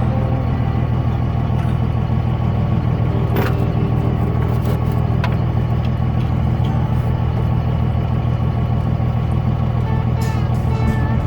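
Diesel truck engine running steadily, a constant low drone with a few light knocks over it.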